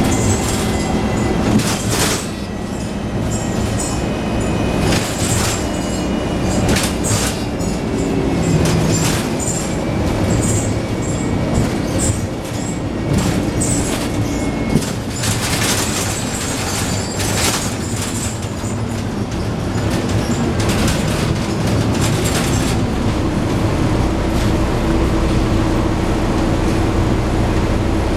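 Scania N113 double-decker bus heard from inside while under way: the diesel engine and drivetrain drone, rising and falling with the revs, under constant rattling and knocking from the body, windows and fittings. A high whine slides slowly down in pitch during the first half.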